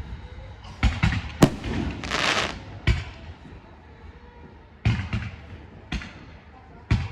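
Fireworks exploding overhead: a string of sharp bangs, roughly one a second, with a longer fizzing crackle about two seconds in.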